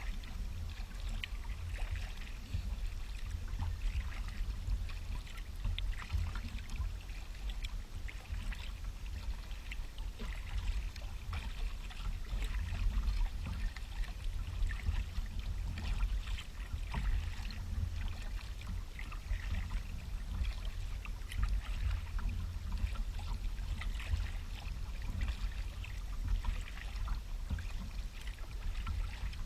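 Kayak paddle dipping into the water with small splashes and dripping, over a steady low rumble.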